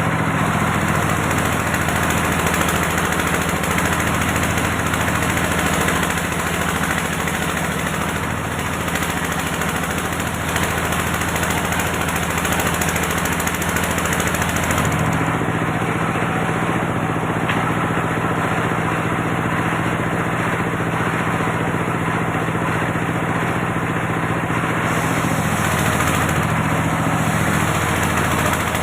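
Engine of an antique circular sawmill running steadily, its note changing from about halfway in and settling back near the end.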